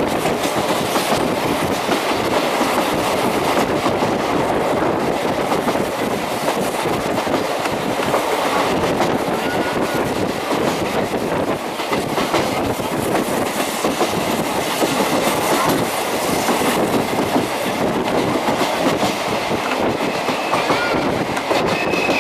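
Old-style passenger coach running at speed over jointed rail, heard through an open window: a steady rumble of the running gear with the clickety-clack of the wheels crossing rail joints. A brief high wheel squeal comes in near the end.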